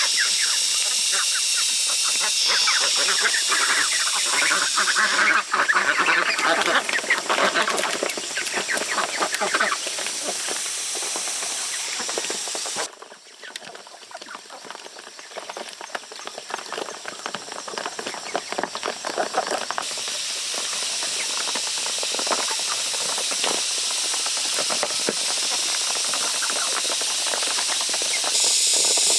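Farm ducks and geese quacking and honking, over a steady high hiss. The sound drops suddenly about 13 seconds in and slowly builds again.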